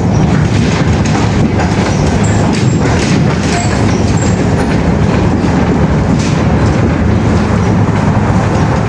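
Loud, steady rumbling noise of a vehicle in motion, with a few faint, short high squeaks.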